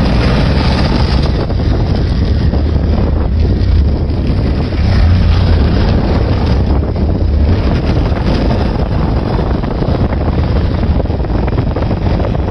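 Wind buffeting the microphone of a Honda Recon 250 ATV on the move, a steady low rumble that mostly covers the engine running underneath.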